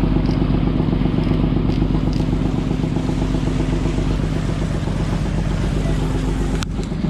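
Fishing boat's engine running at a steady speed, with the rush of water and wind under it. There is a brief dip in level with a click about six and a half seconds in.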